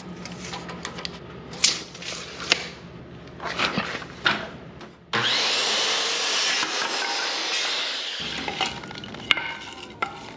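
Knocks and clatter of wood being handled, then about five seconds in a power tool starts and runs steadily on wood for several seconds, easing off near the end.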